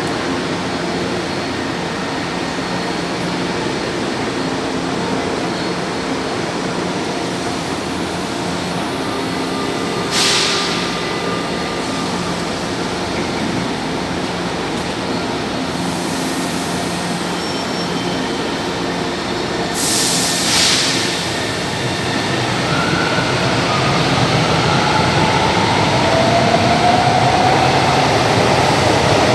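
São Paulo Metro train at the platform: a steady electrical hum, broken by two short bursts of hiss about ten and twenty seconds in. From about two-thirds of the way through, a rising whine builds and grows louder as the train's traction motors draw it away.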